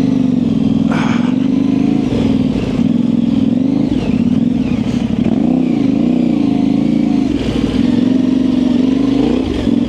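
Yamaha Ténéré 700's parallel-twin engine running through an aftermarket high exhaust, its pitch rising and falling gently with small throttle changes. A brief knock about a second in.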